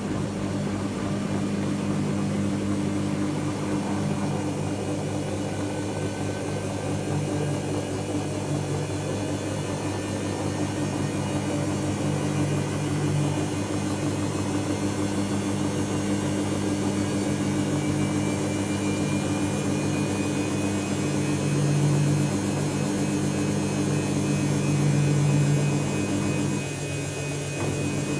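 Dyson Contrarotator CR01 washing machine running partway through a synthetics wash cycle. Its motor gives a steady hum of several low tones that swells a few times and dips briefly near the end.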